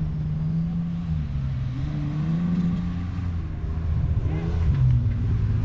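Off-road 4x4 vehicle's engine running under load as the vehicle works an obstacle course, its note wavering up and down and settling lower near the end.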